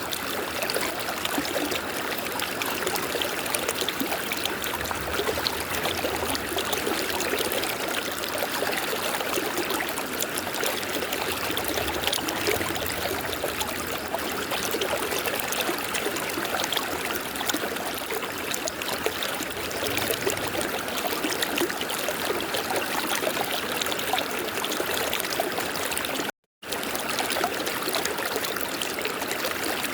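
River water flowing in a steady, continuous rush. The sound cuts out completely for a split second about three-quarters of the way through.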